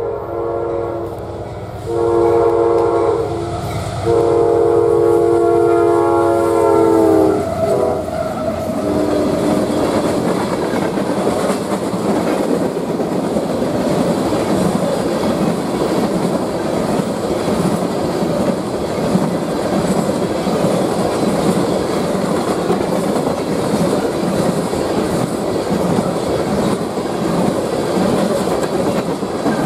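Horn of a CSX GE diesel locomotive sounding three blasts, the last one longest and falling in pitch as the locomotive passes. Then a long string of railroad tank cars rolling by, a steady rumble with wheels clicking over the rail joints.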